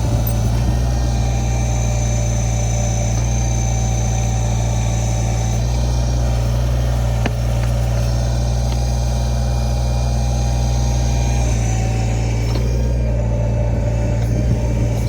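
Tractor engine running steadily while it powers a backhoe digging out a tree stump, its note shifting a few times as the hydraulic load changes.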